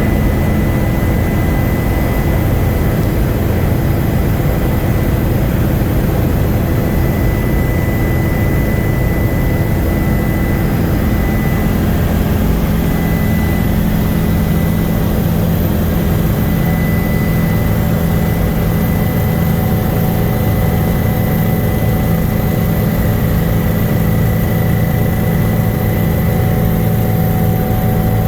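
Helicopter running steadily in flight: a loud, dense low drone of engine and rotor with a thin, steady high whine above it.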